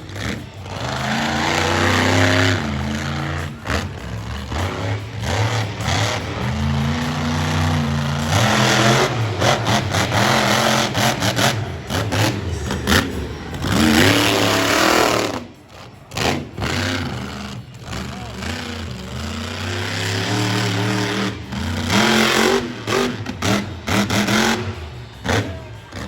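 Monster truck engines revving hard, the pitch climbing and dropping again and again, with several abrupt cuts where the sound breaks off.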